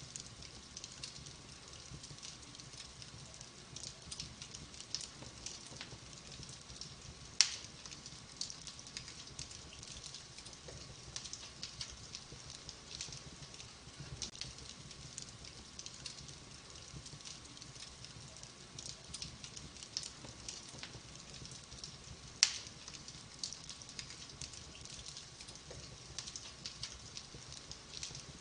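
Wood fire in a fireplace crackling steadily with small quick ticks, and two loud sharp pops, one about a quarter of the way in and one about three-quarters of the way in.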